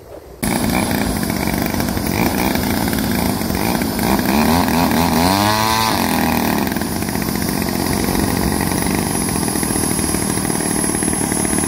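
Propeller engine of a large radio-controlled model airplane, running loudly on the ground. It starts abruptly about half a second in and revs up and back down around the middle.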